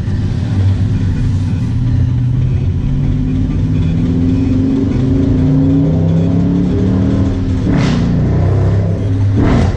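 Dodge Charger Daytona's HEMI V8 running through its exhaust with the mid-mufflers deleted, its pitch climbing slowly under light acceleration. Two short rushing sounds come near the end.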